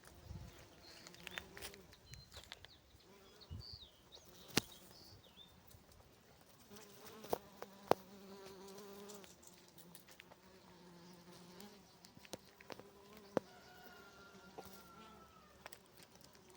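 Honeybees buzzing: a faint, wavering hum that fades in and out, with a few sharp clicks.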